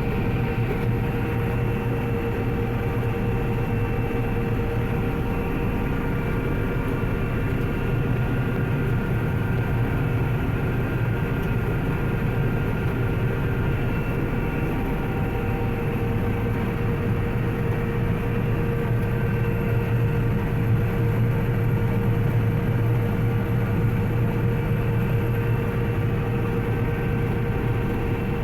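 Combine harvester running steadily while cutting wheat: a constant machinery drone with a steady whine over it.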